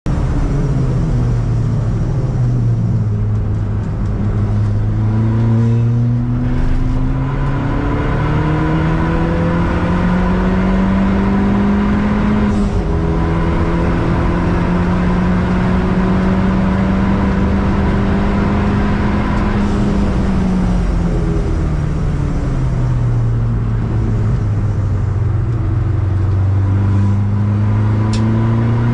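Ford Fiesta ST180's turbocharged 1.6-litre four-cylinder engine heard from inside the cabin at full throttle on track, with a steady high whine running throughout. The revs fall at first, then climb hard, drop once about twelve seconds in at an upshift, and hold high. They fall away as the car slows for a corner around twenty seconds in, then climb again near the end.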